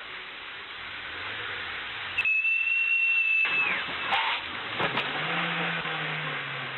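Road and engine noise from a moving car. About two seconds in, a single high squeal holds for about a second and a half, then drops away, followed by a few sharp knocks.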